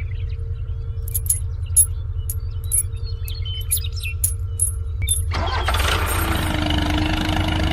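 Engine running with a fast, steady low chug. Light clicks and rattles sound over it for about the first five seconds, after which the sound fills out with a steady hum.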